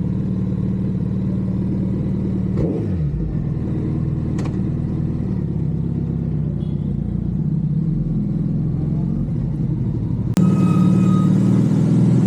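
Suzuki Hayabusa's inline-four engine running steadily at idle. Its sound changes briefly about three seconds in and gets louder about ten seconds in.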